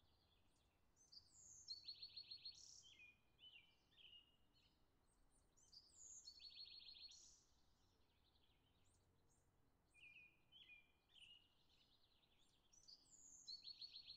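Faint songbird singing: three phrases of varied notes, each with a fast trill, a few seconds apart.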